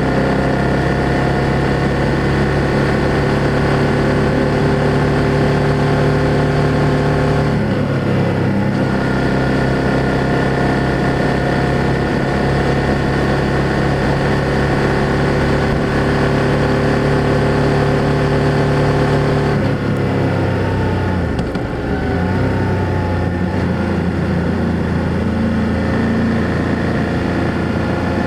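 BMW F800GS motorcycle's parallel-twin engine and exhaust under way at a steady cruising note. The note breaks briefly about eight seconds in. About twenty seconds in it drops and dips slightly in loudness, then settles at a new steady pitch.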